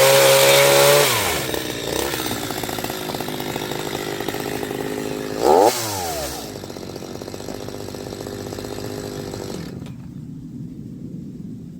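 Chainsaw engine running at high speed, then dropping to a lower idle about a second in as the throttle is let off. A short rev comes about halfway through, and the engine gets quieter toward the end.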